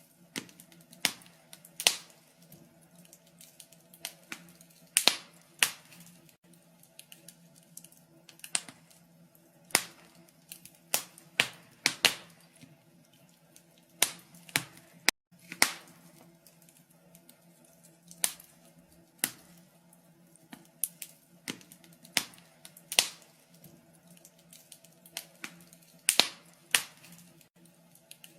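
Wood burning in a fireplace, crackling with irregular sharp pops and snaps at uneven intervals, a few louder than the rest, over a faint steady hum.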